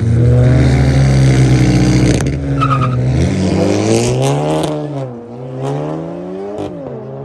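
Two cars launching from a standstill in a drag race, engines revving hard and pulling away through upshifts: the pitch climbs, then drops with each gear change about two, four and a half and six and a half seconds in. The engines fade as the cars get farther away.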